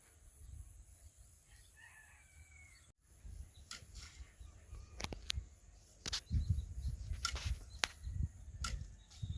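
A rooster crowing faintly about two seconds in. After an abrupt cut, a series of sharp clicks or knocks follows, with bouts of low rumbling.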